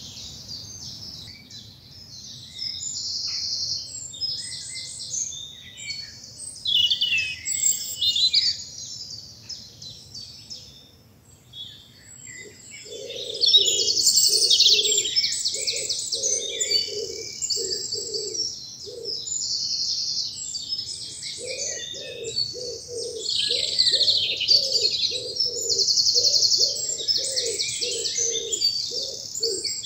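Woodland dawn chorus: many songbirds singing at once, with fast high trills and warbling phrases. From about twelve seconds in, a pigeon coos low and repeatedly underneath, stopping briefly and then starting again.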